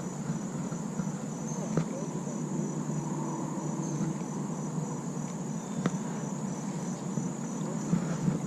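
Steady high-pitched chirring of crickets or other insects over a constant rushing noise, with a couple of faint clicks.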